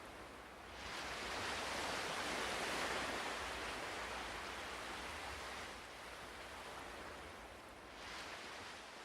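Ocean surf washing in: a wave swells about a second in and slowly recedes over several seconds, and another starts to build near the end.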